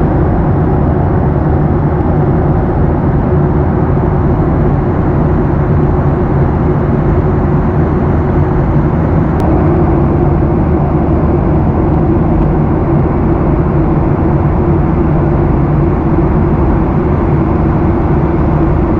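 Steady cabin noise of a Boeing 737 in cruise: even airflow and engine noise with a low hum. There is one faint click about nine seconds in.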